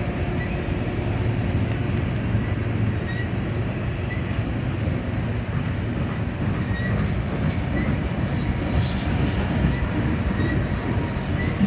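Long freight train of refrigerated boxcars rolling past: a steady rumble of steel wheels on rail with light repeated clicks. A brief high wheel squeal comes about three quarters of the way through.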